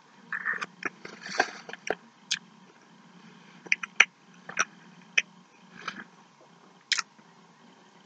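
A person biting into a McChicken sandwich and chewing it close to the microphone: irregular sharp mouth clicks and smacks, thickest in the first couple of seconds, then a few more spaced a second or so apart.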